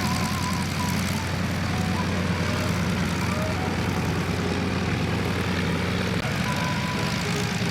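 Light piston-engined propeller aircraft running with a steady low drone.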